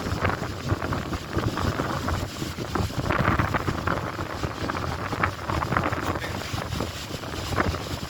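Strong wind buffeting the microphone in uneven gusts, with choppy lake waves splashing against the shore.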